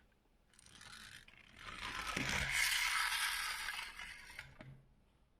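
Small mechanism of a diecast model car being handled, scraping and clicking: a short scrape about half a second in, then a longer, louder scrape with small clicks lasting about two and a half seconds.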